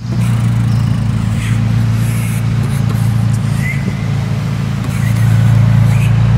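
Blue McLaren's twin-turbo V8 idling with a steady low hum, getting a little louder about five seconds in.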